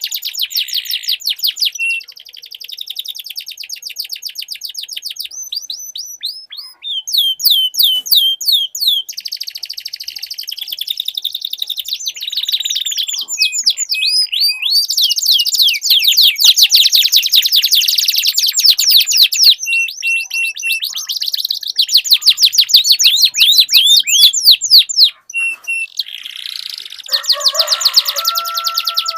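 Domestic canary song: long, rapid rolling trills of fast repeated sweeping notes, broken by short whistled notes and changes of trill speed. Near the end a lower warbling joins in.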